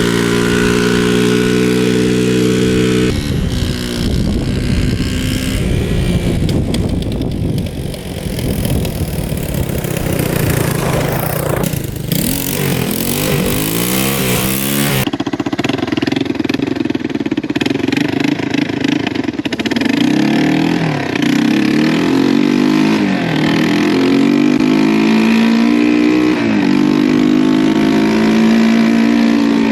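1985 Yamaha 225DX three-wheeler's single-cylinder four-stroke engine running under way, revving up and falling back repeatedly as it is ridden. The sound changes abruptly about 3 and 15 seconds in, as between separate takes.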